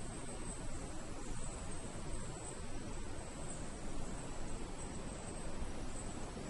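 Night insects in rainforest giving a high, steady trill that swells faintly about once a second, over a low, even rumbling hiss.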